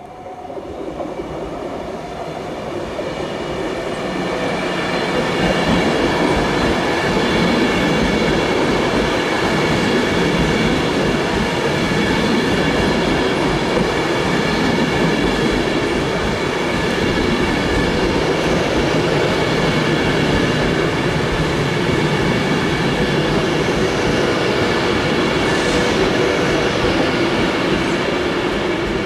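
A train running slowly past, growing louder over the first few seconds, then a steady rumble of wheels on rail with a whine of several steady tones, and a few short high squeals from the wheels near the end.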